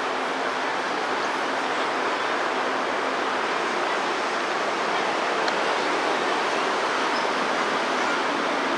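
Steady rushing noise as a JR 205 series electric commuter train approaches slowly along the track, with a faint low hum early on.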